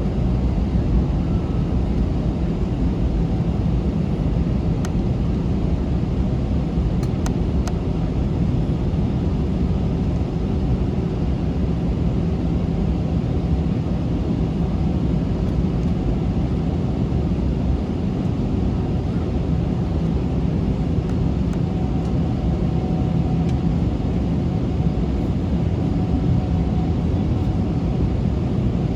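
Steady, loud rumble of an Airbus A321's jet engines and airflow, heard inside the passenger cabin.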